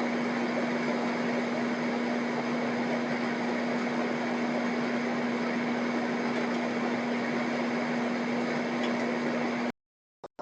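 Steady machine hum: a constant low tone over an even rushing noise, unchanging until it cuts off abruptly near the end.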